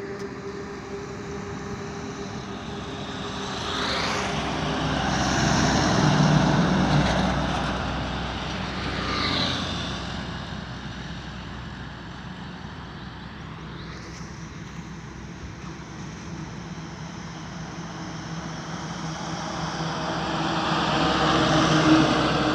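Highway traffic passing close by: engine and tyre noise swells up and fades as each vehicle goes past, loudest about six seconds in and again near the end.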